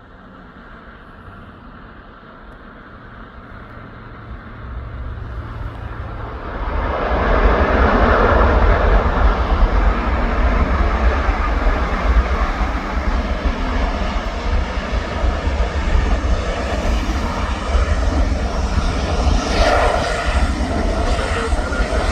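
Aerostar twin piston-engine light aircraft coming in to land. Its engine noise grows over the first several seconds, rises sharply about seven seconds in as it passes close, and then holds loud and steady.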